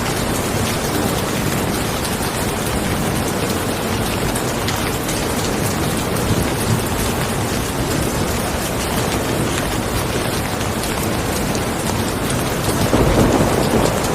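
Steady, dense rainfall hissing on surfaces. A louder low rumble swells near the end.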